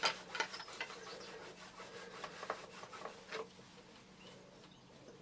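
Hand rubbing and scrubbing on the plastic base plate of a Vax Mach Air vacuum cleaner to clean off dirt: irregular short scratchy strokes that grow sparser and fainter toward the end.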